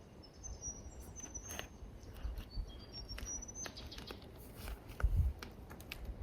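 A small bird calling in a run of thin, high whistled notes that step up and down, with scattered sharp clicks and a low thud about five seconds in.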